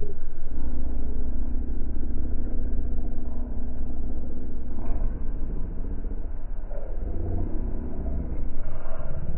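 An engine running steadily with a low hum, its pitch shifting slightly partway through.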